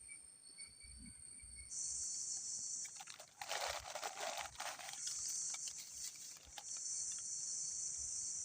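Forest insects calling steadily in high, pulsing tones, with a louder high-pitched buzz that starts about two seconds in and keeps going. About three seconds in comes a two-second burst of crunching and crinkling close by.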